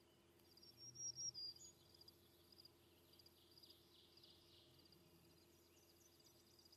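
Faint birdsong in open country: a few high chirps and trills, loudest about a second in, then softer trilling.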